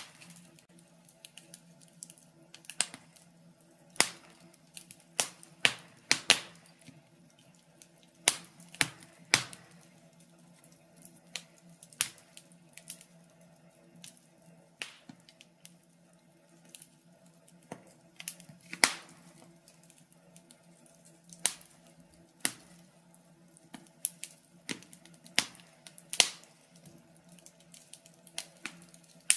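Wood fire in a fireplace crackling, with irregular sharp pops and snaps of varying loudness over a faint steady low hum.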